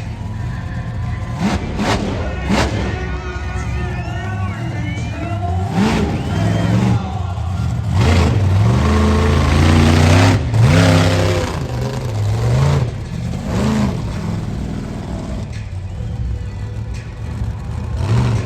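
Monster truck engine revving hard, its pitch rising and falling over and over, loudest about halfway through.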